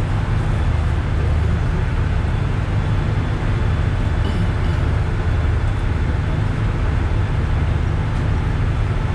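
Steady low rumble and hiss of a sleeper train, heard from inside the carriage.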